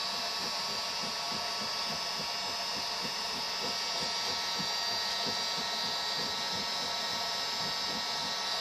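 Steady whirring hiss with a hum, the sound of a small electric blower motor running continuously.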